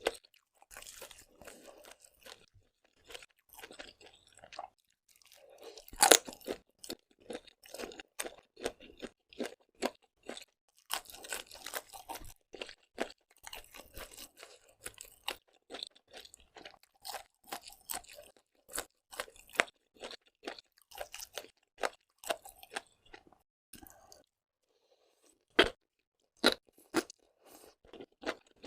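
Close-miked chewing and crunching of seafood: a long run of wet chewing with sharp cracks and crackles. The loudest crack comes about 6 seconds in, and there is a short lull a little before the end.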